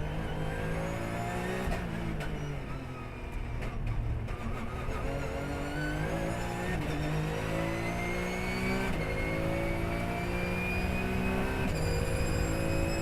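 Porsche race car engine heard on board, slowing with falling revs early on. It then accelerates hard through the gears: the pitch climbs and drops sharply at each of three upshifts.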